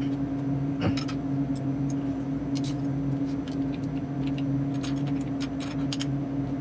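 Freezer compressor humming steadily, with scattered light clicks and taps of small parts being handled, the sharpest just under a second in.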